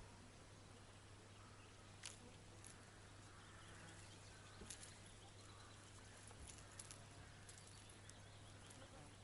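Near silence, with a faint steady low hum and a scattered dozen faint short clicks and rustles.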